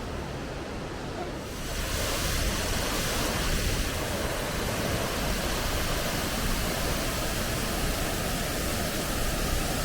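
Waterfall pouring into a pool: a steady hiss of falling water that grows louder about two seconds in.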